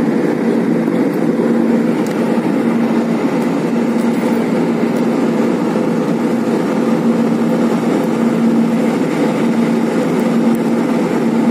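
Steady engine and airflow noise inside an airliner's passenger cabin in flight, with a constant low hum.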